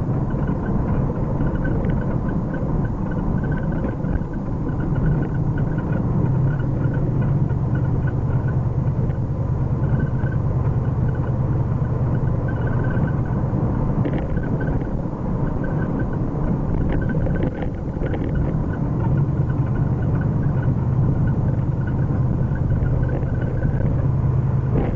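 1979 Ford Mustang Pace Car's engine running steadily on the move during its break-in period, with tyre and road noise, heard from inside the cabin. The low engine note grows stronger and eases off a few times.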